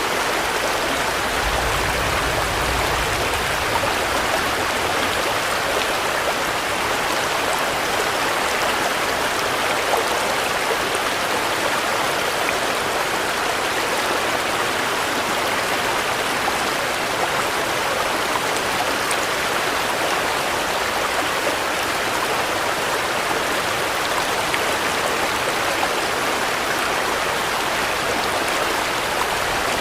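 Steady, even rain falling, a dense hiss with no letup. A brief low rumble comes about two seconds in.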